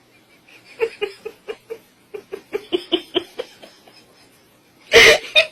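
A person laughing in a quick run of short pulses, about four a second, followed about five seconds in by a short, loud burst of sound.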